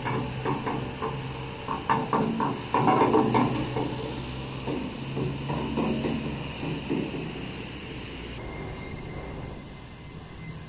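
Train wheels clattering and knocking over the rails, a run of irregular sharp knocks that thin out and fade over the first eight seconds as the train moves away, leaving a faint steady background.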